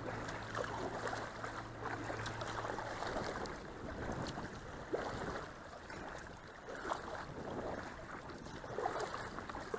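Kayak paddle strokes splashing in the river at an irregular pace, with water washing along the Ermak 380 kayak's hull and wind on the microphone.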